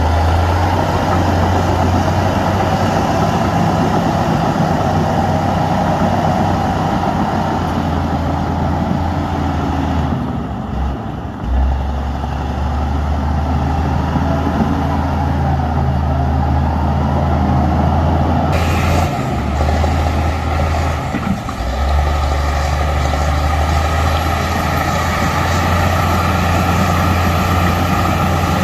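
Heavy diesel engines of earthmoving machinery running steadily under work, with a brief dip in level about ten to eleven seconds in.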